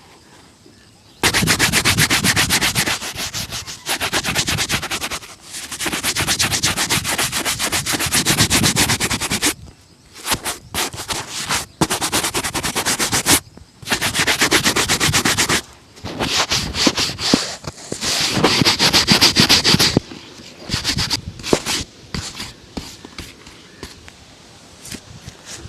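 Shoe brush scrubbing a leather shoe in rapid back-and-forth strokes, in spells of a few seconds broken by short pauses, lighter and more scattered near the end.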